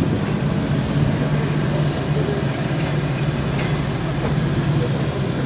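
Pakistan Railways passenger train running, heard from an open coach doorway: a steady rumble of wheels and running gear with a constant low engine hum underneath.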